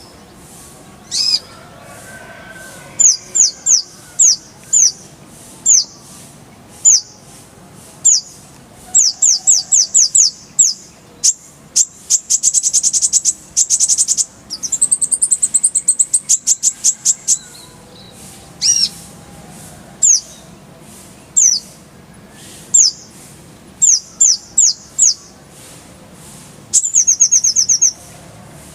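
Kolibri ninja sunbird singing: sharp, high-pitched chirps that sweep downward, delivered in quick runs, broken by fast rattling trills (the 'roll tembakan').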